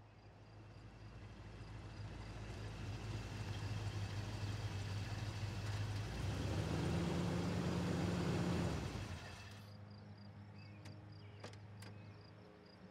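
Chevrolet Corvette C3's V8 engine growing louder as the car drives up and pulls in, then dropping to a steady idle about nine seconds in. A few light clicks come near the end.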